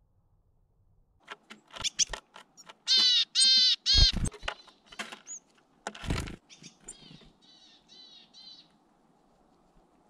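Bird calls: two loud calls about three seconds in, then a fainter run of four calls a few seconds later, among several knocks and thumps on the wooden bird feeder.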